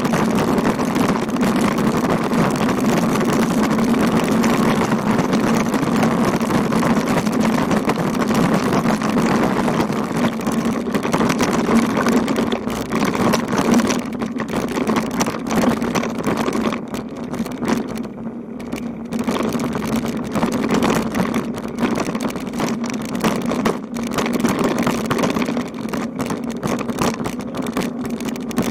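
Steady rumble and wind noise of a bicycle riding along a rough road, with many small knocks and rattles, easing slightly in the second half.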